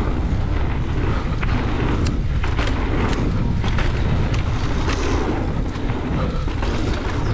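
Wind buffeting the microphone and tyres rumbling over a dirt trail on a fast mountain-bike ride, with frequent sharp clicks and knocks from the bike rattling over bumps.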